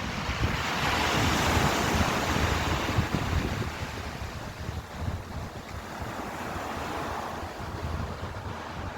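Ocean waves surging and washing in, one swelling up about a second in and fading away, a smaller one rising again around seven seconds in, with wind rumbling on the microphone.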